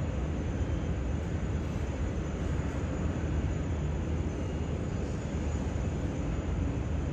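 Jet aircraft engines, a steady low rumble that holds level throughout with no rising or falling whine.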